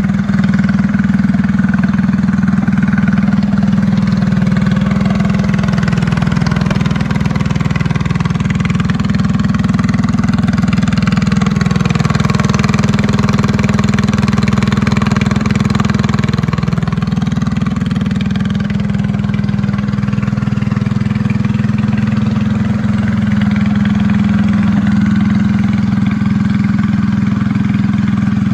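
Predator 224 single-cylinder four-stroke engine of a minibike, with an aftermarket exhaust and the governor bypassed, running steadily after start-up.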